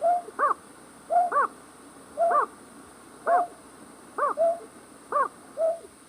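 Night bird call repeated about once a second: each call is a short note followed by a quick arched note that rises and falls. It is a lure call for trapping night birds.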